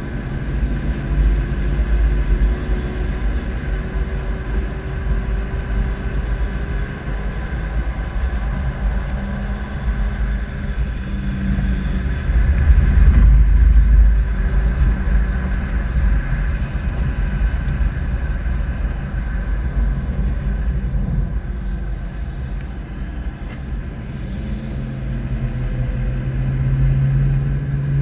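Steady low rumble of an SUV driving slowly, engine and road noise heard from a bumper-mounted camera. Engine tones drift in pitch and swell louder about halfway through.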